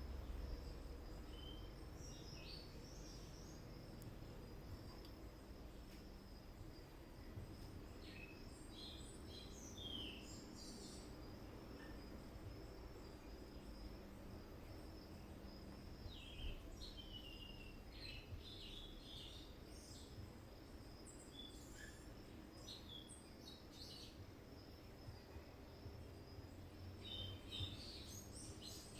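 Faint birds chirping in scattered short calls, some falling in pitch, over a low steady hum.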